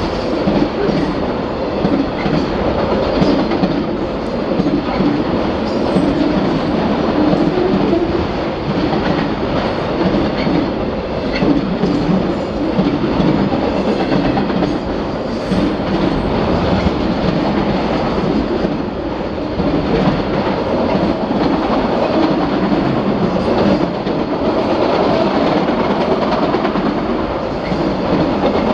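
Autorack freight train rolling past with a steady rumble of wheels on rail and a scattering of clicks as the wheels cross rail joints.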